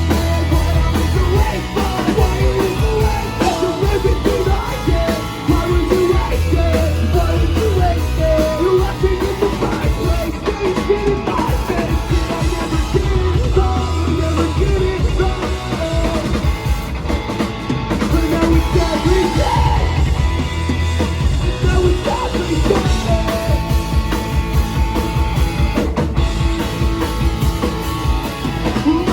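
Rock band playing live and loud: a singer over a pounding drum kit and amplified instruments, without a break.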